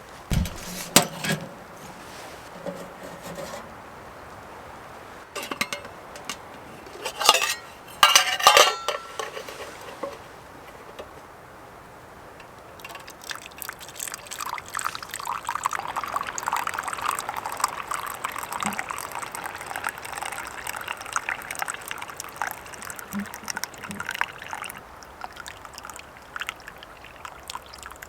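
A cooking pot knocking and clinking a few times as it is handled, then tea pouring steadily from the pot into a cup for about ten seconds, stopping a few seconds before the end.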